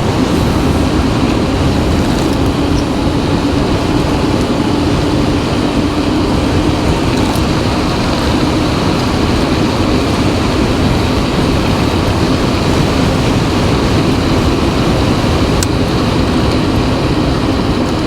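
Steady loud wind rush over the microphone and road noise from an electric BMX bike speeding downhill at about 30.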